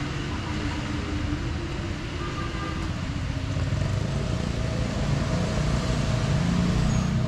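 Street traffic: a motor vehicle's engine running close by over a steady wash of road noise, growing louder from about four seconds in.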